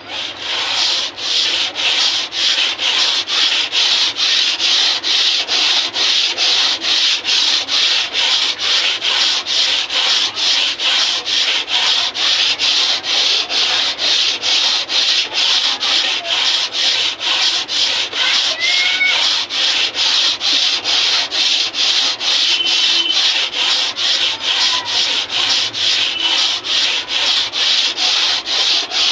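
Sandpaper rubbed back and forth by hand on a harmonium part in steady strokes, about two a second. The surface is being sanded flat so the key seats tightly without air leaking.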